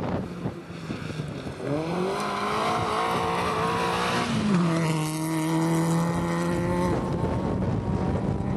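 Rally car running hard at speed over road and wind noise. Its pitched note rises for a couple of seconds, holds steady, and breaks off about a second before the end.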